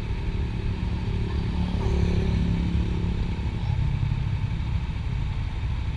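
Motorcycle engine running on the road, with a steady low rumble; the engine note swells about two seconds in and eases off again.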